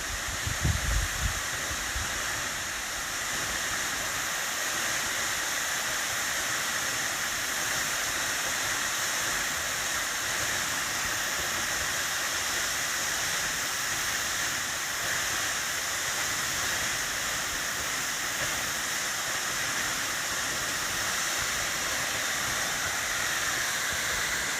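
Steady rushing of falling water, an even hiss that does not change, with a few low wind thumps on the microphone in the first second.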